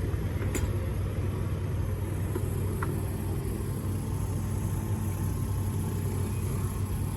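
Distant racing motorcycles running practice laps on a track, heard as a steady low engine drone.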